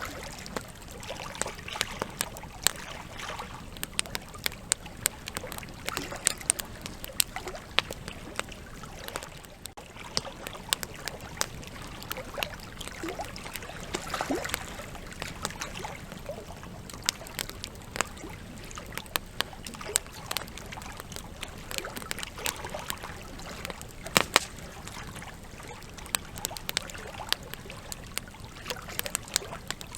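Wood campfire burning, with frequent sharp crackles and pops over a steady hiss of flames. A pair of louder pops comes about three-quarters of the way through.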